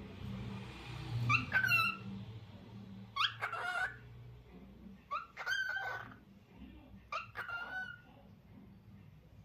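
Lutino cockatiel whistling: four short warbling phrases, each starting with a quick upward sweep, about two seconds apart.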